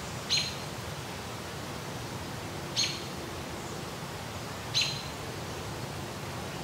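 Three short, high bird chirps a couple of seconds apart over a steady background hiss.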